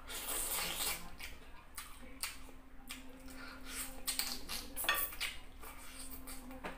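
Close-miked eating: a chicken drumstick in soup being bitten and chewed, with a burst of wet noise about a second in, then many short wet mouth clicks and smacks. Near the end, fingers are sucked. A faint steady hum runs underneath.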